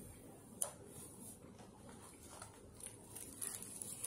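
Chewing a burger, with its paper wrapper crinkling in the hands and a sharp click about half a second in.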